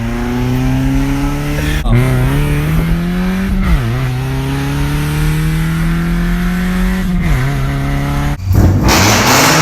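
Car engine pulled hard through the gears: its note climbs steadily, drops sharply at each of three upshifts and climbs again. About a second before the end a loud rushing noise sets in over it.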